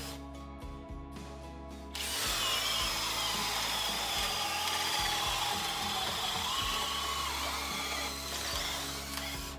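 Cordless drill running under load, starting about two seconds in and going for about seven seconds, its motor whine wavering in pitch, over background music.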